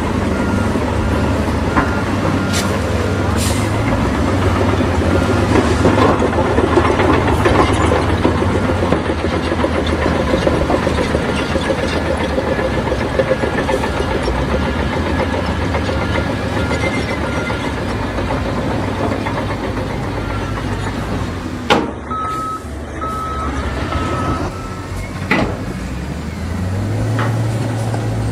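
Heavy construction machinery engines running steadily, with a reversing alarm beeping at an even pace, and a couple of sharp knocks about two-thirds of the way through.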